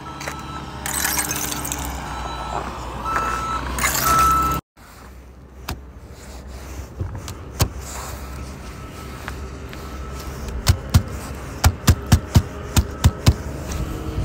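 Vehicle running with a steady low rumble and surges of hiss in the first few seconds, cut off abruptly. After the cut a run of sharp clicks, about three a second, comes near the end.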